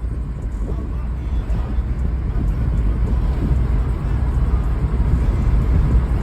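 A car on the move: a steady low rumble of engine and road noise that slowly grows louder.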